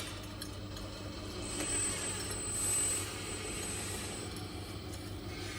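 1/14-scale RC Mercedes-Benz Arocs skip-loader truck running, a steady mechanical hum, with a thin high whine joining in at about one and a half seconds in and fading out before four seconds.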